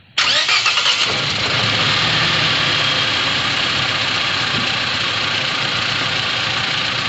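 Toyota Innova gasoline VVT-i four-cylinder engine started, catching within the first second and settling into a steady idle. The engine has a misfire that is being traced.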